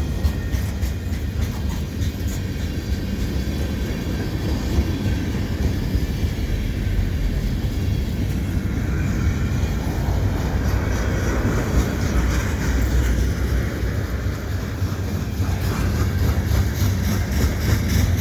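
Canadian Pacific freight train's cars rolling past at steady speed: a continuous low rumble of steel wheels on rail, with faint rapid clicking in the last couple of seconds.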